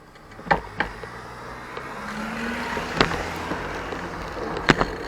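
A car's engine running close by as it pulls out, its noise growing louder about two seconds in, with several sharp knocks from the bicycle and its loose camera mount.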